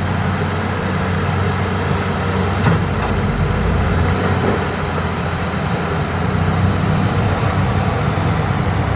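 Hitachi excavator's diesel engine running steadily at work, with a single knock about two and a half seconds in and a faint high hiss for a few seconds around it.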